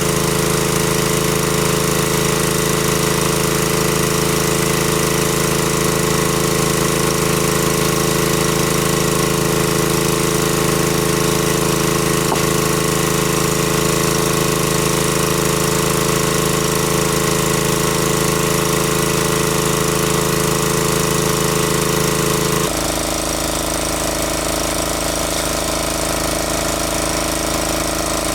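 Engine-driven water pump running steadily at constant speed. Its sound shifts abruptly and gets slightly quieter about three quarters of the way through.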